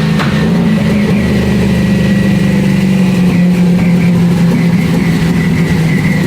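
Twin-turbo Camaro engine running steadily on a chassis dyno, its note easing slightly lower over the few seconds, with a thin high whine above it.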